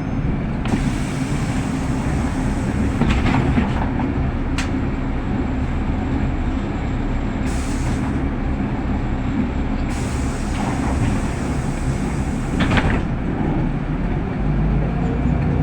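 Inside a city bus, the engine and running gear give a steady low rumble, with short rattles from the cabin about three seconds in and again near the end.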